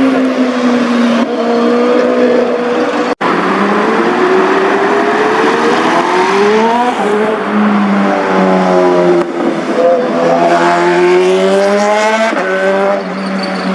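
Several sport-bike engines revving and accelerating past, their overlapping tones rising and falling in pitch. The sound drops out for an instant about three seconds in.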